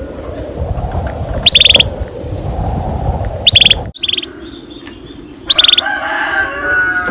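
Domestic canary singing: loud, short bursts of rapid high trilled notes about every two seconds over softer warbling song. The background changes abruptly about four seconds in.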